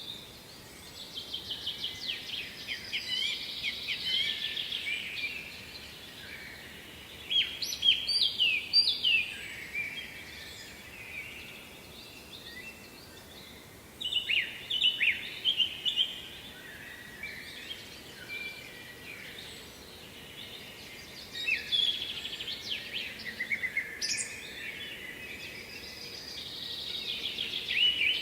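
A songbird singing short phrases of quick, falling notes, repeated about every six or seven seconds, over a faint steady background noise.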